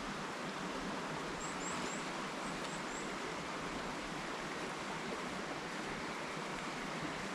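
Steady rushing of a river flowing, with a quick run of faint, very high chirps about one and a half to three seconds in.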